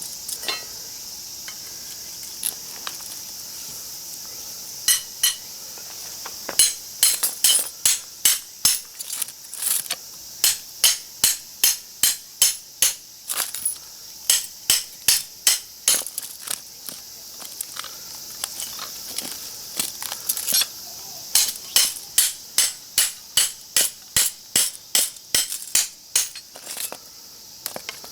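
Repeated hammer blows on a small scrap transformer's steel core, struck while trying to break it apart and free the copper winding. The sharp metallic strikes come in runs of about two a second, starting about five seconds in. Insects chirp steadily behind them.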